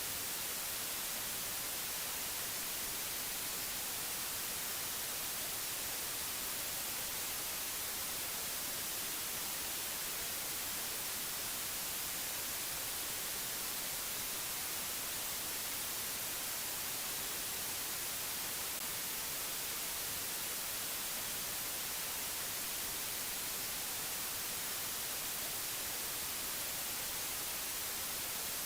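A steady white-noise hiss, bright and treble-heavy, holding an even level with no changes.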